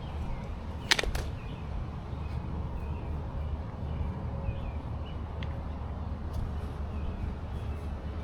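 Outdoor walk ambience: a steady low rumble of walking and wind on the microphone, with faint bird chirps in the background and two sharp clicks about a second in.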